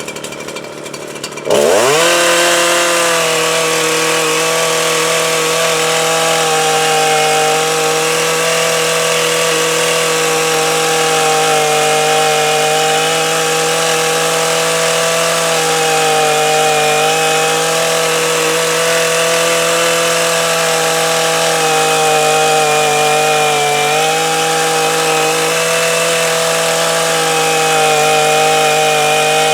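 Two-stroke chainsaw starting up about a second and a half in, revving up fast, then running steadily at high speed, its pitch sagging briefly twice.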